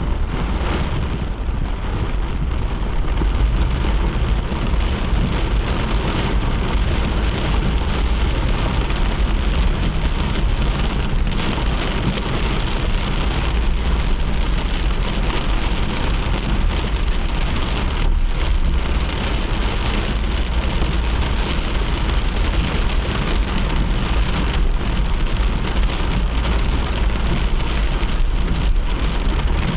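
Steady hiss of rain and wet road noise over a constant deep rumble, as heard from a car driving in the rain.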